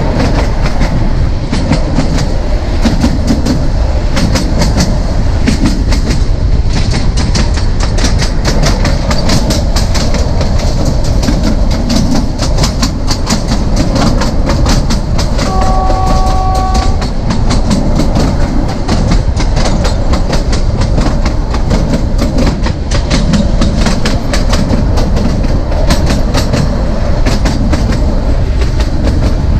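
Narrow gauge train running at speed, its coach wheels clicking rapidly and evenly over the rail joints above a steady rumble. About halfway through, a short steady tone sounds for a second or so.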